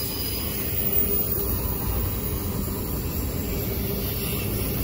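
Double-stack intermodal freight train's container well cars rolling past at close range, with a steady low rumble of steel wheels on the rails.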